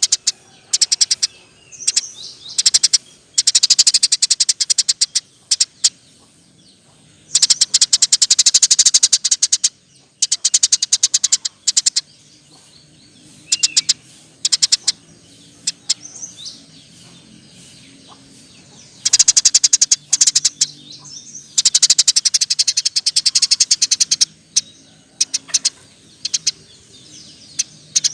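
Eurasian tree sparrow chirping in rapid-fire runs: fast trains of dry, sharp chirps, each lasting a second or two, broken by short pauses.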